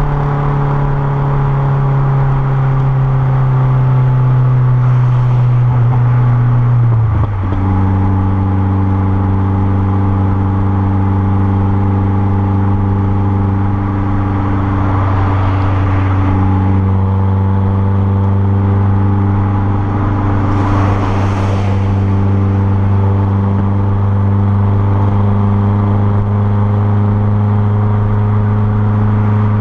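Renault Clio 1.6 16v K4M four-cylinder engine running at steady raised revs through a straight-through 2-inch exhaust. About seven seconds in, the revs drop abruptly to a slightly lower note, which then holds steady.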